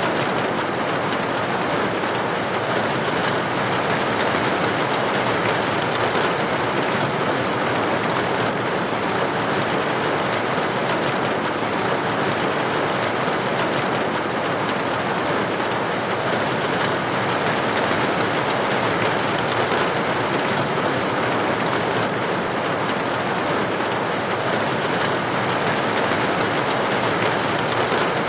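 Steady rain on a window: an even, unbroken patter of raindrops that neither builds nor eases.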